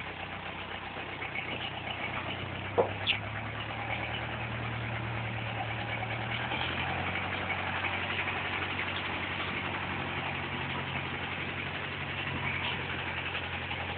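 DTC 640 forestry tractor's diesel engine running steadily at low speed, its pitch shifting slightly a couple of times. Two short sharp knocks come about three seconds in.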